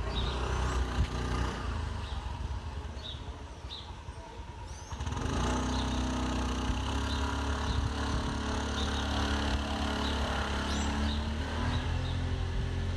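A small motor vehicle engine running steadily close by, coming in suddenly about five seconds in, with short bird chirps.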